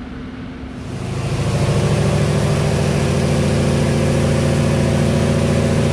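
2019 Corvette Stingray's 6.2-litre V8 running at a steady engine speed on a hub dyno, getting louder about a second in and then holding an even pitch.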